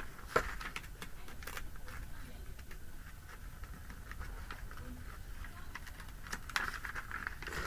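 Glossy paper catalog pages being handled and turned: scattered light taps and short rustles, with a longer rustle of paper near the end.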